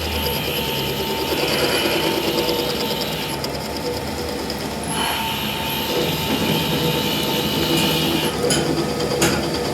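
Workshop machinery running with a steady mechanical noise that shifts in tone partway through, and two sharp clicks near the end.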